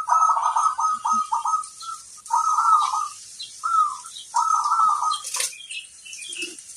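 Zebra dove (perkutut) cooing in a run of rolling, trilled phrases with short gaps between them. A sharp click comes about five seconds in.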